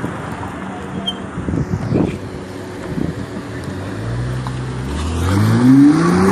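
A motor vehicle's engine accelerating hard; its pitch holds low, then climbs steadily over the last second or two. A few short thumps are heard earlier.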